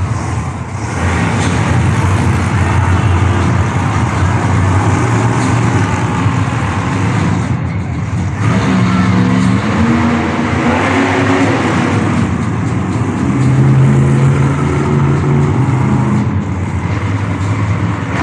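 Monster truck engine running and revving loudly in an arena, its pitch rising and falling about halfway through and again later.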